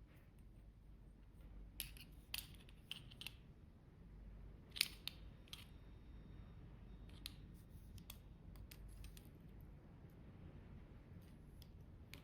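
Faint, scattered clicks and taps of small metal objects being handled, over a low steady room hum.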